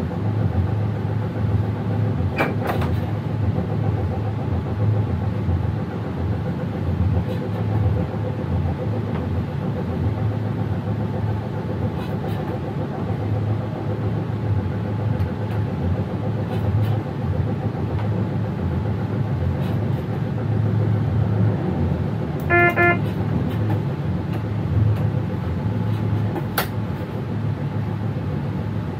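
Cab noise of an electric train running at speed: a steady low rumble with faint steady whining tones, and a few sharp clicks. About 22 seconds in comes a short, pulsed, pitched signal tone.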